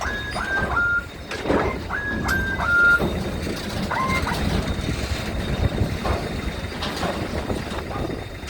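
Steady low rumble of engines and wind, with groups of short high chirps, each dropping in pitch at its end, about three or four in quick succession in the first second, again between two and three seconds, and once more at about four seconds.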